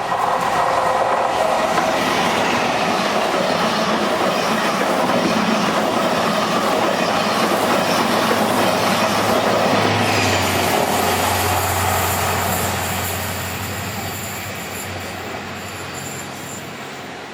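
A train passing close by at speed: a steady, loud rush of wheel and rail noise, with a low hum coming in about ten seconds in and the sound easing off a little near the end.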